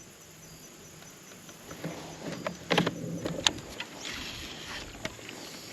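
Handling noise of fishing gear in a small boat: a few sharp clicks and knocks, mostly in the middle and one near the end, over a faint steady hum.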